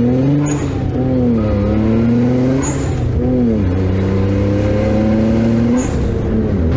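Turbocharged three-cylinder engine of a modified Perodua Kancil, with a TD025 turbo, accelerating hard through the gears: the revs climb, drop at three gear changes and climb again. Each change brings a short hiss from the blow-off valve, and a faint turbo whistle rises as it pulls toward the last shift.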